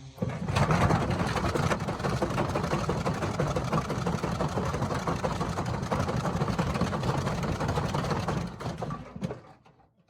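Washing machine running hard, a dense continuous rattling and knocking over a steady low rumble, typical of a drum shaking violently on a fast spin. It starts abruptly and dies away near the end.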